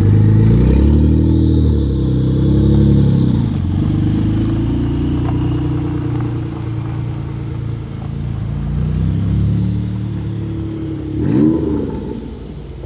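Mitsubishi 3000GT VR4's twin-turbo V6 revving as the car pulls away, the revs rising and falling, then running more evenly as it moves off. A sharp rev-up comes about eleven seconds in, and the sound then fades.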